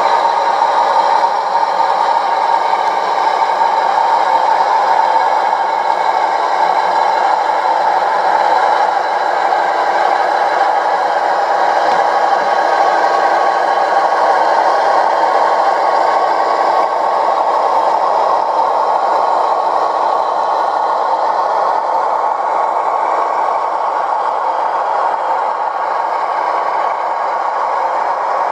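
OO scale model locomotive running, a steady mechanical drone with rattle and no deep bass.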